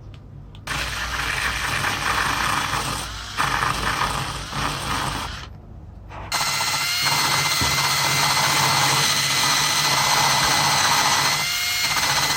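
A handheld power tool running at speed in two stretches of about five seconds each, with a short break between, a steady whine over dense noise.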